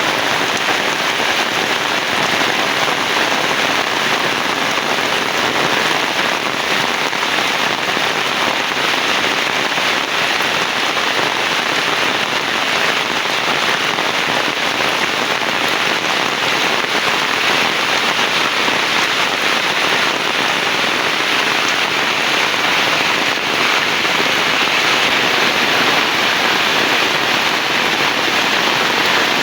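Heavy rain falling steadily: a dense, even hiss of drops that never lets up.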